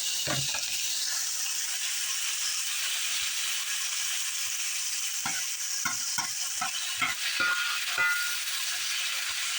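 Chicken, shrimp and onion sizzling in a hot cast-iron skillet, a steady frying hiss. There is a soft thump just after the start, and from about halfway a utensil knocks against the pan roughly twice a second as the food is stirred.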